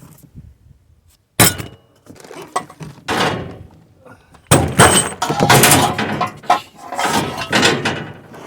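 Boxed sawmill parts being shifted and pulled out of the shipping crate: a sharp knock about a second and a half in, then a scrape, then a long run of clattering and rustling.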